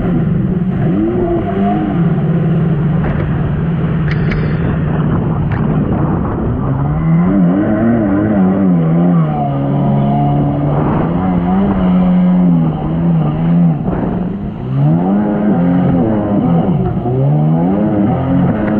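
1999 Sea-Doo XPL jet ski's two-stroke engine running at speed, its pitch holding steady at first and then repeatedly rising and falling as the throttle is opened and eased.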